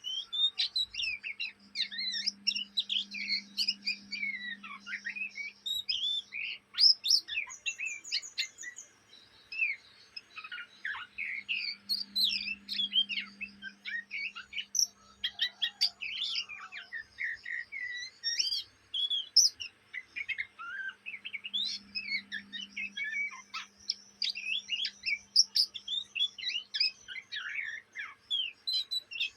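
Young oriental magpie-robin chattering non-stop: a rapid, unbroken run of varied chirps, twitters and short trills. This is the continuous 'ngriwik' chatter of an untrained juvenile bird still forming its song.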